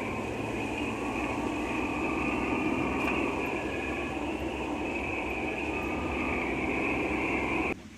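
Steady road and tyre noise of a car driving on a wet road, cutting off abruptly near the end.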